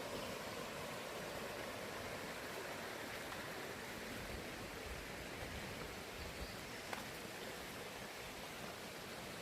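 Mountain valley stream flowing: a steady, even rush of water. A faint click comes about seven seconds in.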